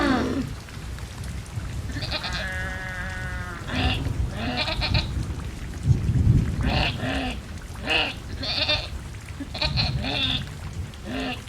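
A steady low rumble and hiss of rain and thunder, with short pitched animal-like calls repeating about every half second to second; one longer call comes about two seconds in.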